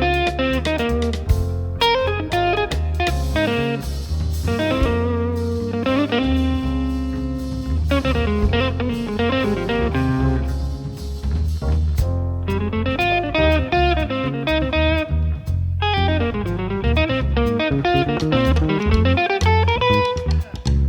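Small jazz band playing live, with electric guitar to the fore over bass and drums.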